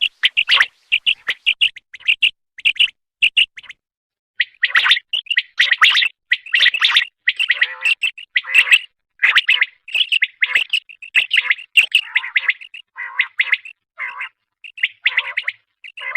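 Common quail calling: quick runs of short, high chirping notes, about three a second at first. After a brief pause about four seconds in, the calls come denser and louder.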